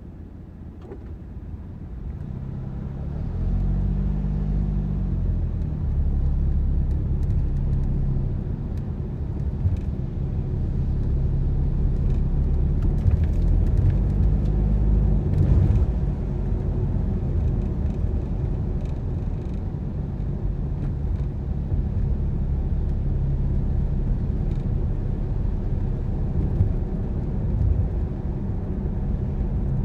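Car driving on the road: steady engine and tyre rumble that grows louder over the first few seconds. The engine note rises and falls in pitch about four seconds in and again about fifteen seconds in, as the car pulls away and gathers speed.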